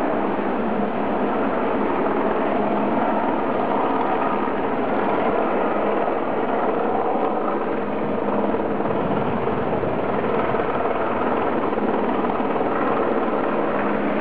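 Radio-controlled model helicopter running steadily, a dense, even rotor and motor noise with no change in level.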